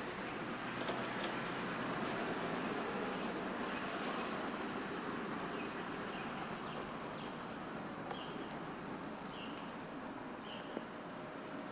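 A cricket chirping in a steady run of rapid, even, high-pitched pulses, which cuts off abruptly near the end.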